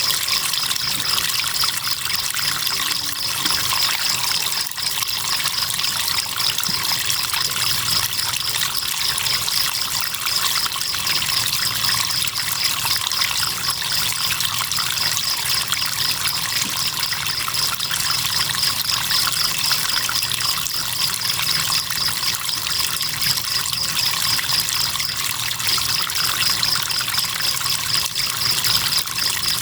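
River water trickling and flowing steadily, with crickets keeping up a high, fast-pulsing chirp over it.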